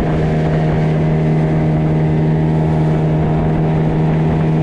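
Motorboat engine running steadily at cruising speed, its pitch and loudness holding even, over the rush of hull and water noise.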